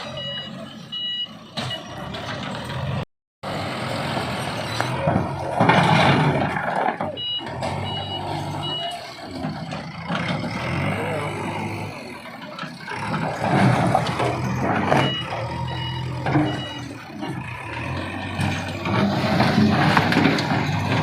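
Diesel engine of a demolition bulldozer running, its reversing alarm beeping about twice a second in several short runs. There are rough, noisy surges of rubble and masonry being broken as walls are knocked down. The sound cuts out briefly about three seconds in.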